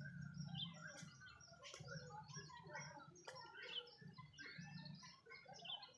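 Several small birds chirping and calling in quick, overlapping notes, faint, over a low steady hum.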